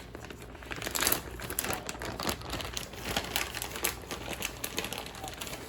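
Irregular crinkling and rustling as shredded mozzarella is handled for topping a pizza.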